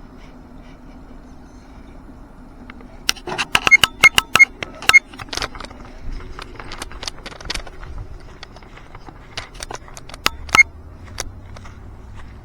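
Radio-controlled truck clattering over rocks: a quick run of sharp, ringing clinks and knocks about three seconds in, then scattered ones, over a faint steady hum.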